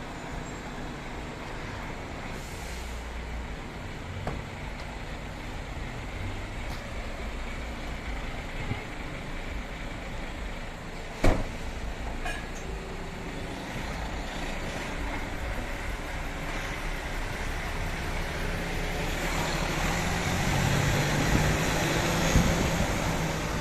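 Street traffic noise, with a lorry's engine growing louder over the last few seconds as it draws near. A single sharp knock sounds about eleven seconds in and is the loudest moment.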